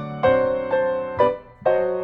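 Background music: a gentle piano melody, with a new note or chord about every half second and a brief drop just before the end.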